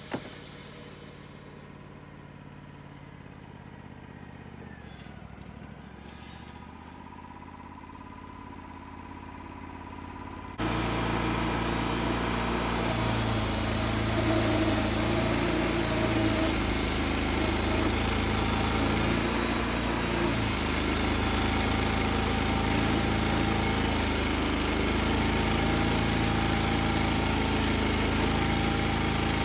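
Portable sawmill's engine running. About ten seconds in it jumps much louder, and its pitch sags a few times as it takes load, as when the blade is cutting through a log.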